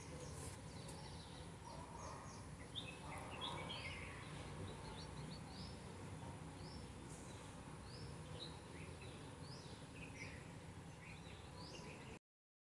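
Faint bird chirps, short and high, repeating every second or so over a low steady background hum, cutting off suddenly near the end.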